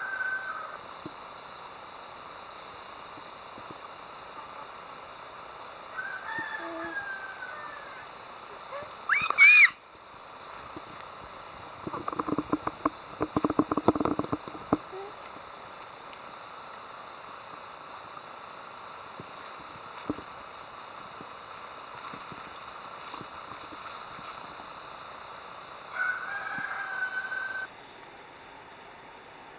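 Outdoor ambience of a steady high hiss, with a few short bird calls and a run of quick, repeated calls in the middle.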